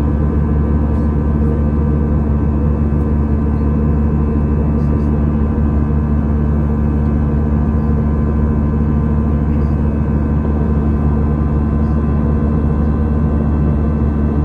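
Airbus A319 airliner in flight heard from inside the cabin: a steady, unchanging drone of engine and airflow noise with several constant hums in it.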